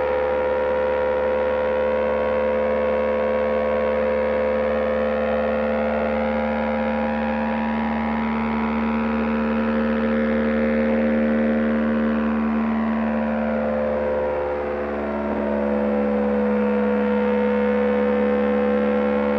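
BMW GS Adventure's boxer-twin engine droning at a steady cruising speed, heard over wind noise. Its pitch dips slightly about fourteen seconds in, then holds steady again.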